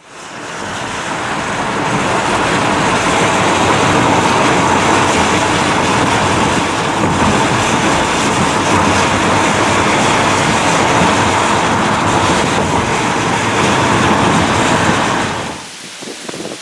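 Loud, steady rushing noise of tropical-storm wind and driving rain, rising in over the first couple of seconds and dropping away sharply near the end.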